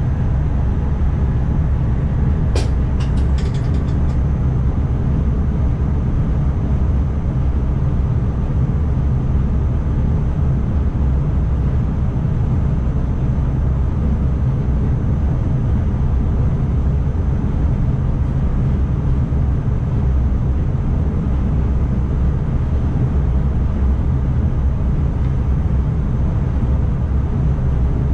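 ICMm intercity electric train running on the line, a steady low rumble heard from the driver's cab. A few brief sharp clicks come about two and a half seconds in.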